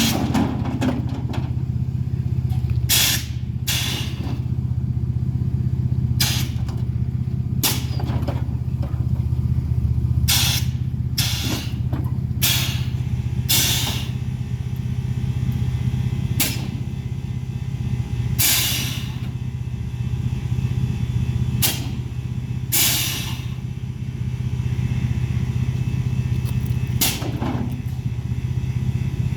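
Mini-truck engine idling steadily, with repeated short bursts of hiss over it.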